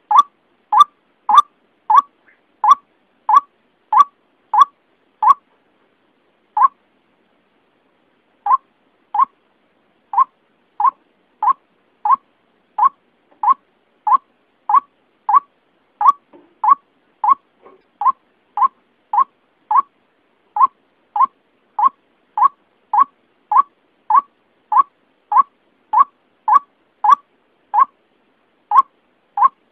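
White-breasted waterhen (ruak-ruak) lure call: a short, clipped note repeated about one and a half times a second. A pause of a few seconds comes in the first third, then the steady rhythm resumes.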